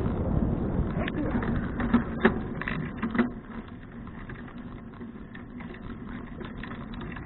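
Riding noise from a 2012 Fuji touring bicycle, mostly wind and road rumble. A cluster of sharp clicks and knocks comes between about one and three seconds in. After that the rumble drops and stays quieter, as when the bike slows.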